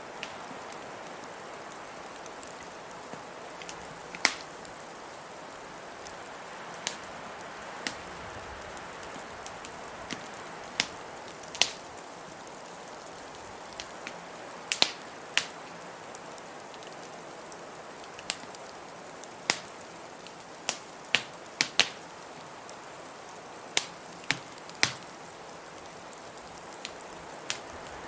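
Wood fire crackling, with sharp pops coming irregularly, somewhat less than one a second, over a steady hiss of blizzard wind.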